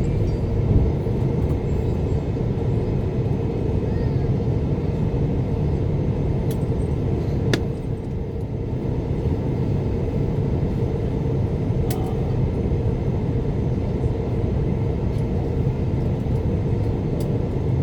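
Steady low cabin rumble of an Airbus A350 in flight, heard inside the passenger cabin. Two brief sharp clicks come about halfway through.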